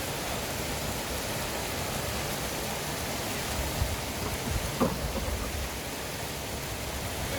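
Steady rushing of flowing river water, with a few brief low thumps about four to five seconds in.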